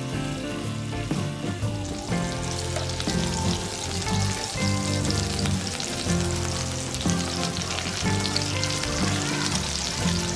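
Slices of pork belly sizzling in hot fat in a non-stick frying pan, the sizzle growing stronger about two seconds in, with background music.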